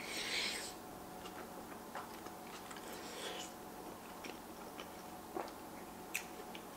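Close-miked mouth sounds of a person eating cheesy baked mac and cheese: a short slurp as the spoonful goes in, then soft wet chewing with small clicks, and another brief slurp about three seconds in.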